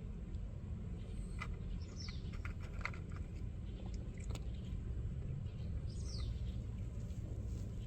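Outdoor ambience with a steady low rumble, two short falling bird chirps about two and six seconds in, and a few faint scattered clicks.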